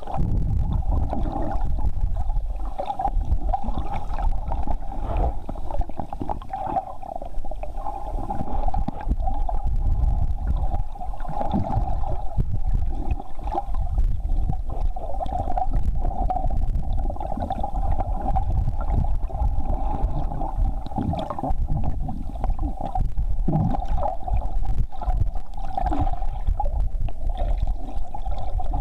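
Boat motor running steadily, with a constant mid-pitched drone over a low rumble and water gurgling.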